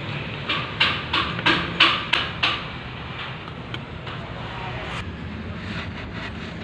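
A quick run of six or seven sharp knocks in the first two and a half seconds, then a steady low background rumble.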